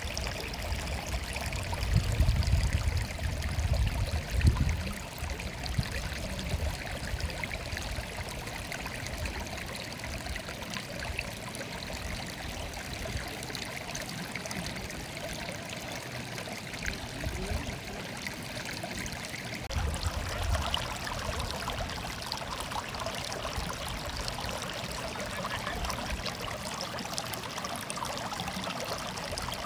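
A small stream murmuring and trickling steadily. Low rumbles break in during the first few seconds and again briefly about two-thirds of the way through.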